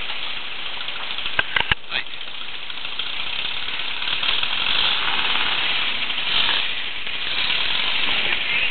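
Westfield SE sports car's engine idling steadily at a standstill, with a few sharp clicks about one and a half to two seconds in.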